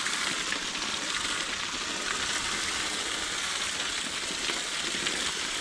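Garden hose spray steadily hissing against the fins of an air-conditioner condenser coil, rinsing the dirt out at gentle pressure.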